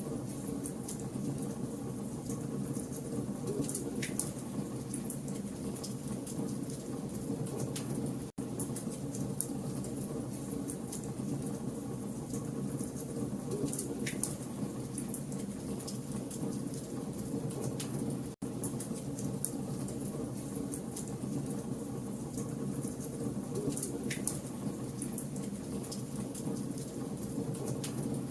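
Campfire of burning logs crackling and popping over a steady low rush of flame. It is a short loop that repeats about every ten seconds, with a split-second gap at each join.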